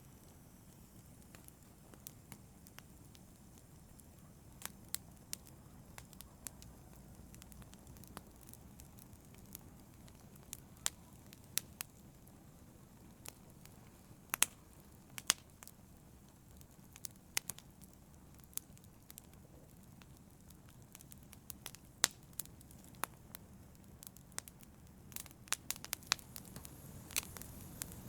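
Wood fire crackling in a fireplace: irregular sharp pops and snaps over a low, steady rumble of the burning, with the pops coming thicker near the end.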